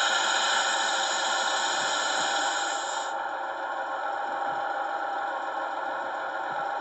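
Märklin 39200 H0 model of the DR class 120 'Taigatrommel' diesel locomotive, its digital sound decoder playing the diesel engine sound through the model's small loudspeaker. The engine sound runs steadily and turns slightly duller and quieter about three seconds in.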